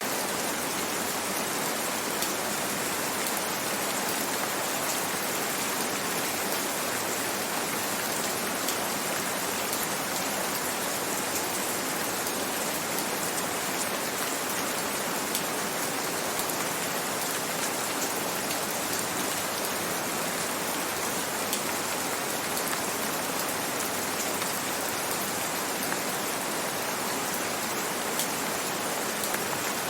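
Steady gentle rain falling, a dense even hiss with many fine drop ticks, without a break or change.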